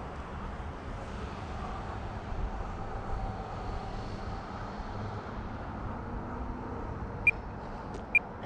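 Electric motor and propeller of a 1.5 m E-flite Air Tractor radio-controlled model plane running in flight, a faint shifting whine heard over low wind rumble. Two short beeps near the end.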